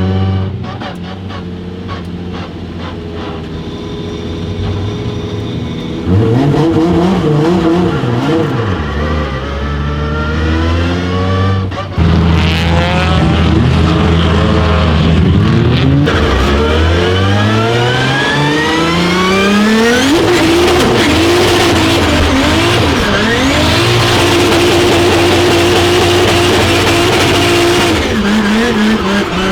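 Toyota 2JZ-GTE turbocharged straight-six in a drift car, heard from inside the car, revving hard several times with rising sweeps in pitch, then held at high revs for several seconds near the end.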